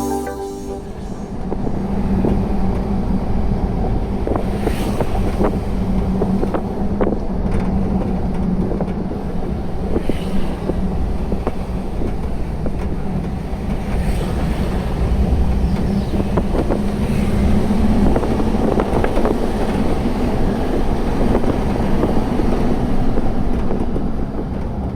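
Pickup truck driving along, its engine running steadily under road rumble, with wind on the microphone and occasional knocks and rattles.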